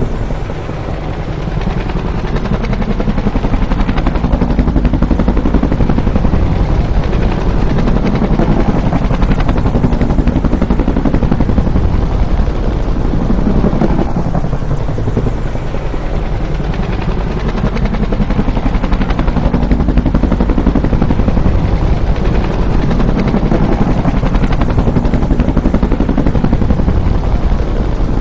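Bell UH-1 Huey helicopter, loud and continuous, the rapid beat of its two-bladed main rotor running throughout with slow swells in level.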